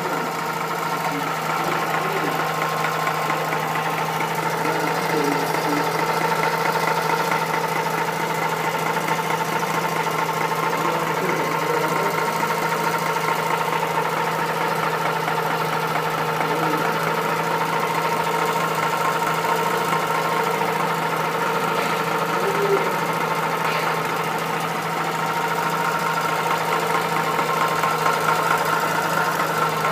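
Mazda RX-8's twin-rotor rotary engine running at a steady speed with a knock in it.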